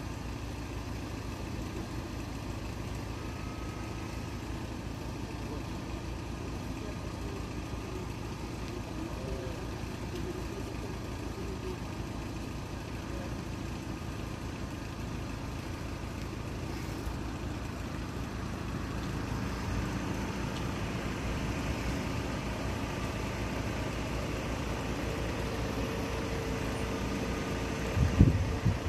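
Car engines idling in a stationary queue of traffic, a steady low rumble. About a second before the end come a few loud, low thumps.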